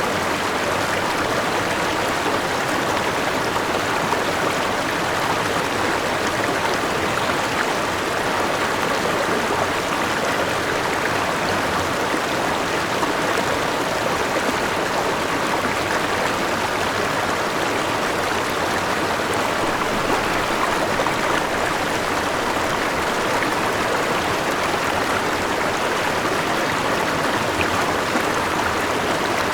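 A forest river flowing over a small waterfall: a steady rush of water with gurgling, unchanging in level.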